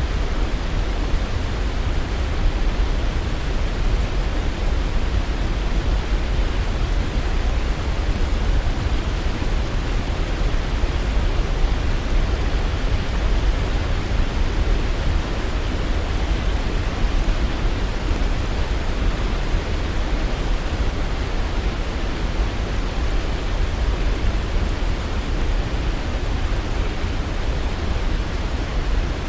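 Waterfall: a steady rush of falling water, heaviest in the low end, unchanging throughout.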